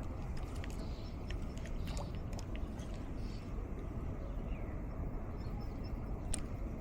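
Breeze rumbling steadily on the microphone in mangroves, with faint bird chirps and a few sharp clicks, the loudest about six seconds in.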